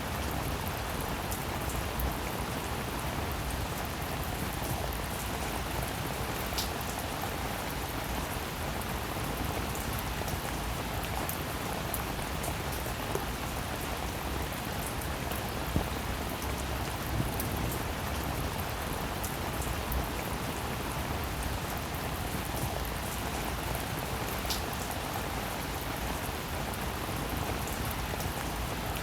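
Steady, even rainfall, with single drops ticking sharply now and then.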